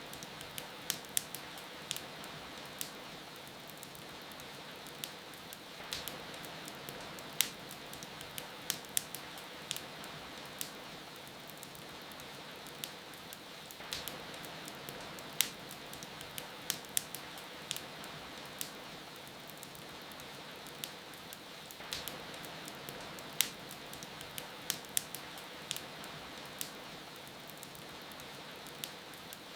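Wood fire crackling with irregular sharp pops over a steady hiss of rain.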